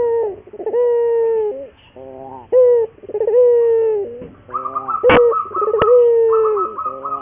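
Puter doves (Barbary doves) cooing: a run of long, drawn-out coos, one after another with short gaps. From about two-thirds of the way in, a higher, rapidly pulsing call runs alongside the coos, and two sharp clicks come shortly after the midpoint.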